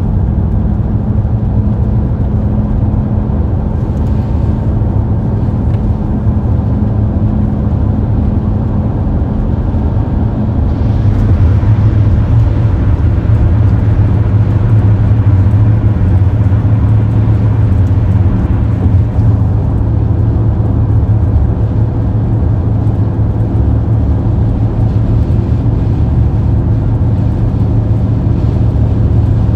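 Steady road and engine rumble of a car driving at speed, heard from inside, a little louder for several seconds from about eleven seconds in.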